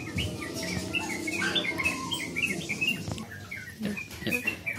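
Small birds chirping rapidly and repeatedly, with a few soft clicks and knocks in the second half.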